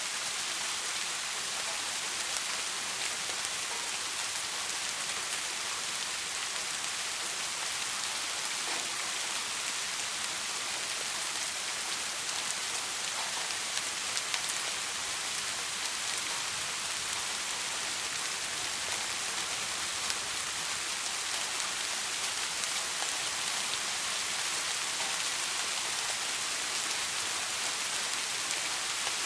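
Soft rain falling steadily, an even hiss with individual drops ticking here and there.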